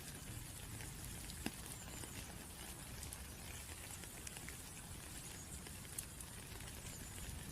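Steady rain with scattered drops ticking on a surface, two sharper drop clicks about a second and a half in and again about six seconds in.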